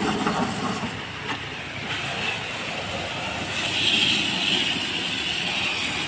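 Tractor running, a steady mechanical noise with a hiss that swells about four seconds in.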